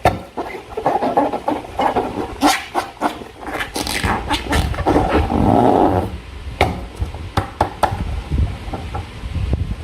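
Slime being squished and worked by hand, irregular wet squelching with many sharp sticky clicks and pops, heaviest in the middle.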